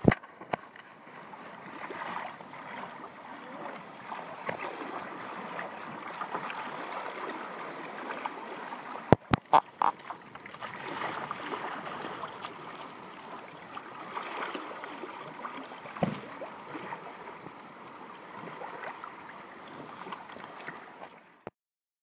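Water splashing and lapping around a sea kayak as it is paddled, with a couple of sharp knocks about nine seconds in. The sound cuts off suddenly near the end.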